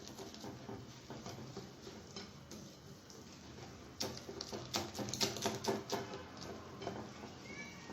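Cake batter being mixed by hand in a bowl: a soft scraping, then quick clicks and scrapes of the utensil against the bowl from about halfway through.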